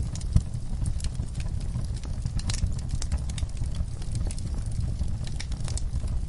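Wood fire burning in a fireplace: a steady low rumble of flames with irregular crackles and snaps from the burning logs, one sharper pop about half a second in.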